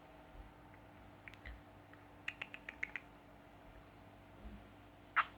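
Pet bird making faint sounds: a quick run of about six soft clicks, then one short chirp near the end.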